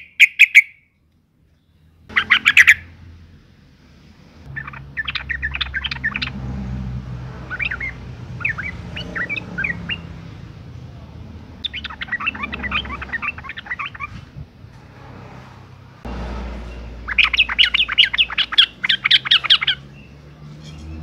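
Female yellow-vented bulbul (trucukan) calling in repeated bursts of rapid chattering notes, with short pauses between bursts and a faint low hum underneath.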